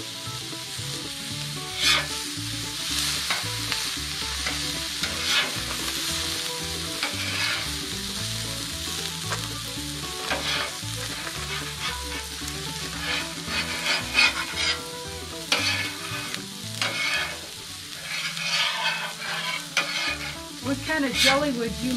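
Omelette frying and sizzling in a pan, with a cooking utensil scraping and knocking against the pan now and then.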